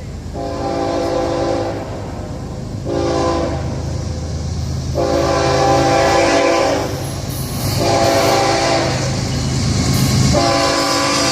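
Diesel freight locomotive's multi-chime air horn sounding about five blasts, long and short, for a grade crossing, over the steady low rumble of the locomotive engines.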